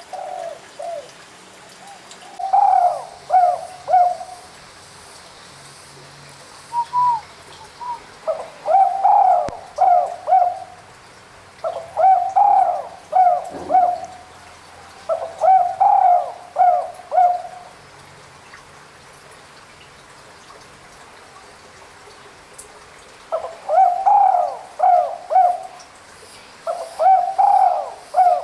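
Spotted dove (tekukur) cooing: phrases of three or four low coos, repeated every few seconds, with a pause of about five seconds before the last two phrases.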